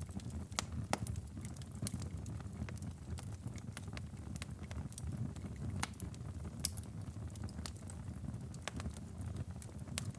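Wood fire crackling in a fireplace, with irregular sharp pops scattered over a low steady rumble.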